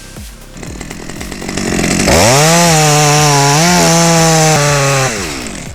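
Chainsaw engine revved up to full throttle about two seconds in, held at high speed for about three seconds, then let back down toward idle near the end.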